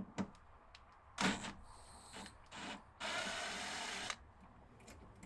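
Handling sounds while air conditioner parts are worked apart by hand: a few clicks, a sharp knock, then a steady rasping noise lasting about a second.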